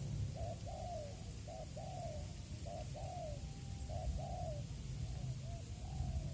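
Spotted dove cooing: a run of short, soft coo notes in repeated phrases, over a low background rumble.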